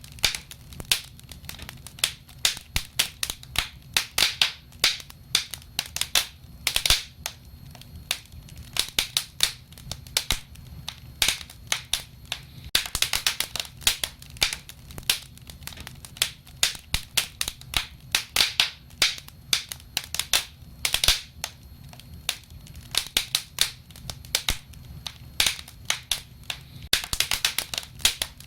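Wood fire crackling, with irregular sharp pops and snaps several times a second over a steady low rumble of burning.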